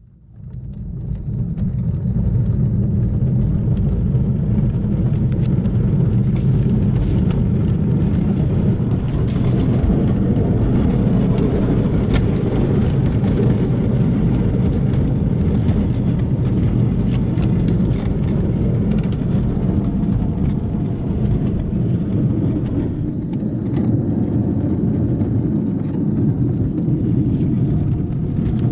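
7 1/4 inch gauge miniature railway train running along the track, heard from on board as a steady low rumble that builds over the first couple of seconds and then holds.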